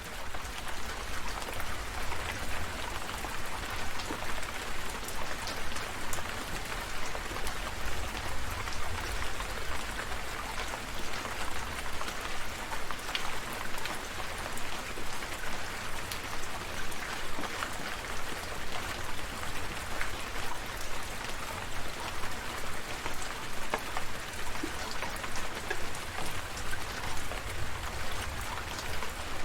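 Steady rain falling, with many separate drop ticks over an even hiss and a low rumble underneath.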